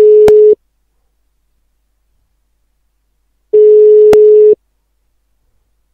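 Telephone ringback tone on an unanswered call: one steady mid-pitched tone about a second long, repeating after about three seconds of silence, with a sharp line click cutting through each tone. This one-second-on, three-second-off pattern is the standard Belgian ringback, meaning the far end is ringing and has not yet picked up.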